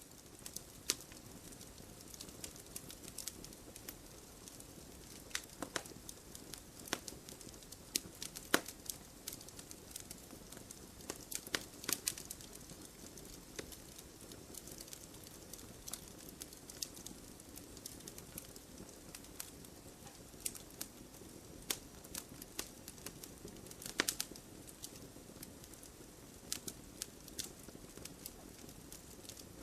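Wood fire burning in a fireplace: logs crackling, with irregular sharp pops over a soft steady hiss.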